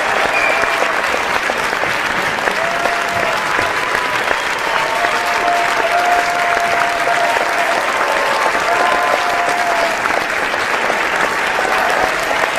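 A large audience clapping steadily, with sustained cheering shouts held over the applause at times, most of them in the middle stretch.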